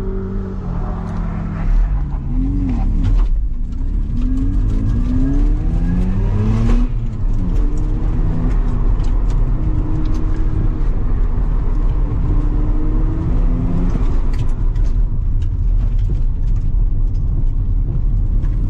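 1994 Mazda RX-7's twin-turbo two-rotor rotary engine driven hard. It revs up in several rising runs in the first seven seconds, with sharp drops as the throttle comes off, then holds a steadier, wavering pitch through the course.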